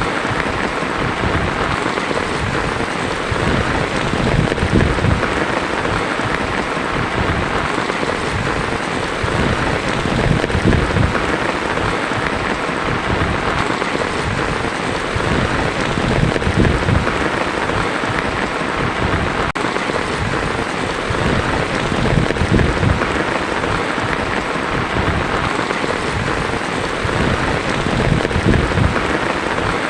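Heavy rain drumming on a tin roof in a steady, dense hiss, with a low rumble of thunder rolling underneath.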